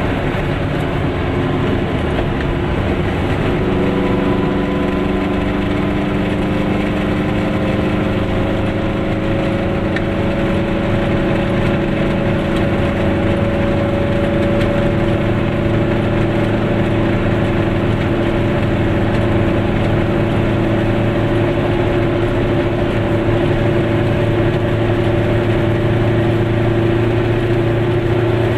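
Goggomobil's small two-stroke twin engine heard from inside the car while driving, its hum climbing slowly in pitch as the car gathers speed, then holding steady, over tyre and road noise on a wet road.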